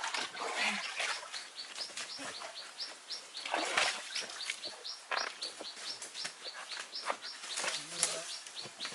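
A bird calling over and over in short, high, upward-sliding chirps, about three a second, over irregular rustling and crackling clicks.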